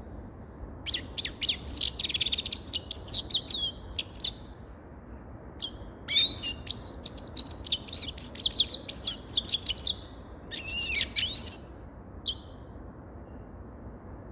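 Grey-headed goldfinch singing: three bursts of rapid twittering song, quick high chirps and trills, the first and second each about three to four seconds long and the last short, with single chirps between them.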